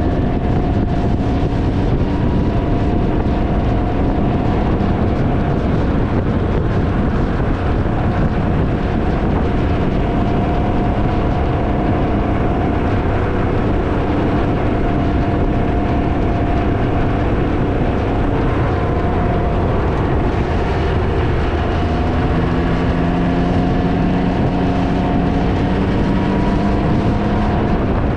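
Heavy wind noise on the microphone over the engine of a Can-Am Ryker three-wheeler under way. The engine note climbs gently near the end.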